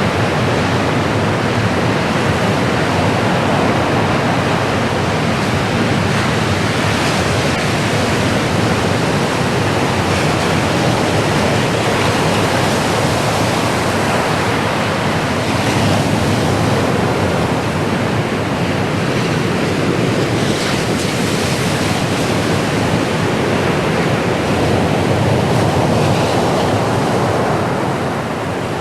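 Ocean surf: waves breaking and washing on the shore in a continuous wash of noise that swells gently and subsides.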